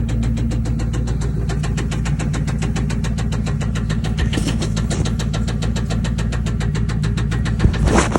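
A swapped-in engine in a 2000 Lincoln Town Car idling with an even, rhythmic pulse. There is a short, louder noisy burst near the end.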